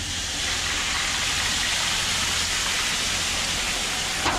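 Liquid smoke and water sizzling on the hot steel top of a Blackstone griddle, a steady hiss as it turns to steam under a foil pan cover.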